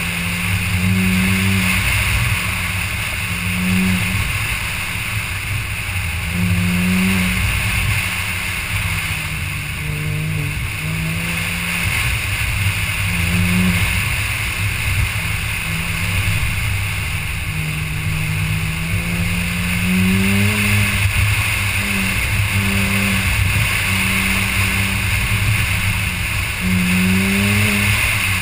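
Porsche Cayman S's mid-mounted flat-six engine pulled hard and lifted again and again during an autocross run, its pitch rising and falling every second or two. A steady rushing noise runs underneath.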